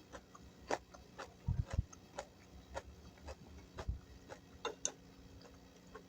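Close-up chewing of crunchy food: irregular crisp crunches about twice a second, with a couple of soft low thumps.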